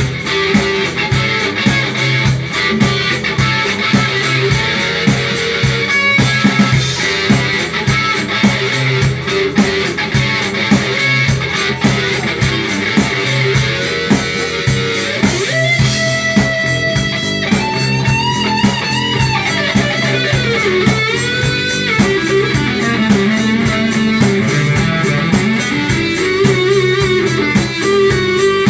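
Rock band playing an instrumental passage: electric guitar over a steady drum kit beat, with a bending lead line in the second half and no singing.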